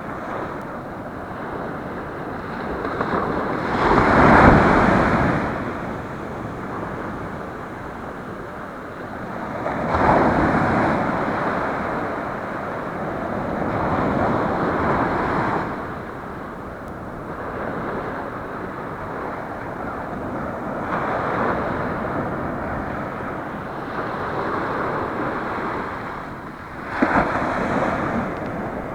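Ocean surf breaking on the shore, the noise swelling and fading as waves come in every few seconds, with wind on the microphone. The loudest wave is about four seconds in, and another crashes in sharply near the end.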